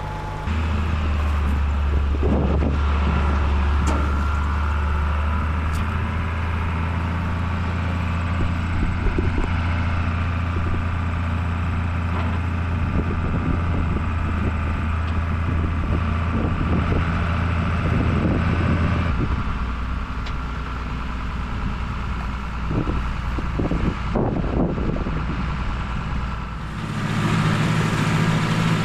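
Tractor engine running steadily with a low hum and some rattling, its note changing a few times.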